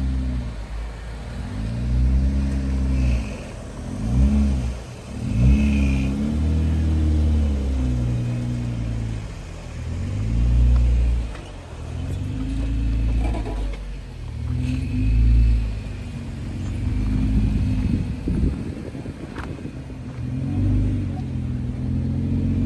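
Jeep Wrangler engine revving up and down over and over, its pitch rising and falling about every two seconds, as it crawls over trail obstacles.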